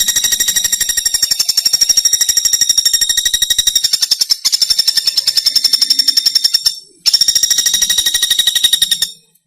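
Common flameback woodpecker (pelatuk bawang) giving its long, rapid rattling call of high, evenly repeated notes, about fifteen a second. The rattle breaks off briefly about seven seconds in, starts again, and stops shortly before the end.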